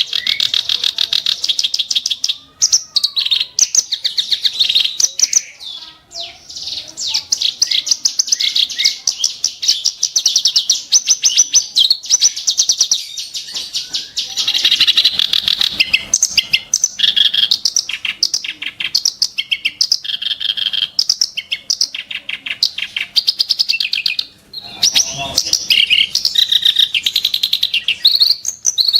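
Kerak basi (reed warbler) singing a long, fast song of rapid, harsh, chattering notes, broken by a few brief pauses.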